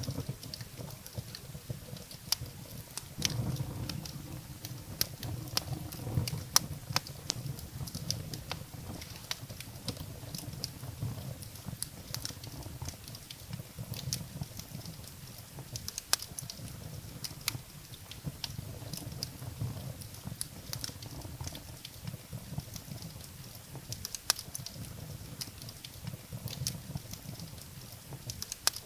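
Wood fire burning in a fireplace: a low steady rumble of flames with irregular sharp crackles and pops from the firewood.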